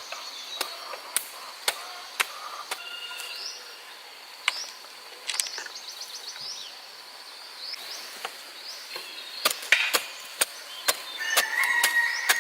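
Sharp, irregular knocks, like chopping, coming in spurts roughly half a second apart, with pauses between the spurts. Short rising bird chirps and a steady high insect whine sound behind them outdoors.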